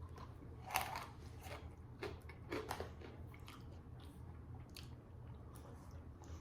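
Freeze-dried vanilla ice cream being bitten and chewed: faint, irregular crunches.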